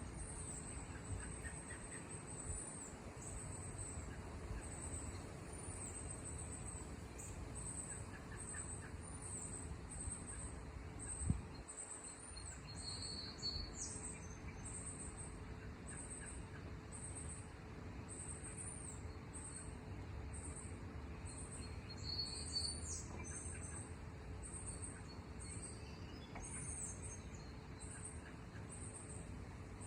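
Outdoor ambience of small birds chirping, high and repeated over and over, with a faint steady hum underneath. A single sharp knock comes about 11 seconds in.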